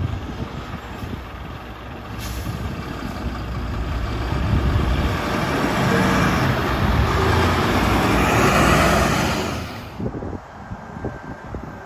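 Heavy truck driving past, its engine and tyre noise growing louder over several seconds to a peak, then dropping off sharply about ten seconds in.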